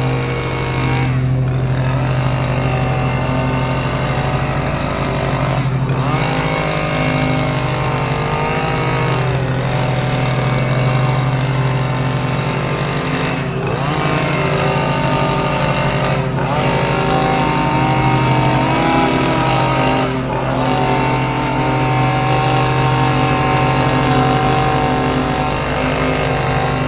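Stihl KM 94 R two-stroke power head driving a hedge trimmer attachment, running at high speed while cutting. The engine speed sags briefly about five times and comes straight back up.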